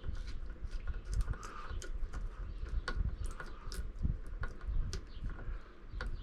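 Plastic wire nuts being twisted onto electrical wires and the wires handled: irregular small clicks and scrapes, several a second, over a low rumble.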